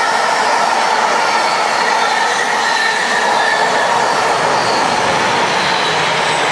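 Container wagons of an intermodal freight train rolling past at speed: a loud, steady rush of wheel and rail noise with faint high squealing tones from the wheels.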